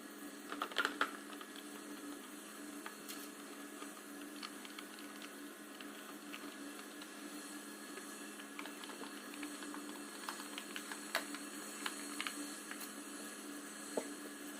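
Scattered light clicks and taps over a steady low hum, with a short cluster about a second in and a few more near the end.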